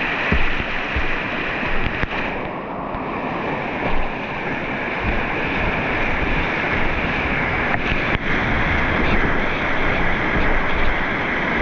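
Rushing whitewater of river rapids, a loud steady wash of water, with wind buffeting the microphone.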